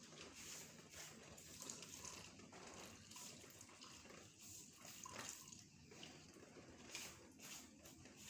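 Faint running and splashing water, heard as an uneven hiss with small irregular splashes, from washing soapy split-type air-conditioner parts.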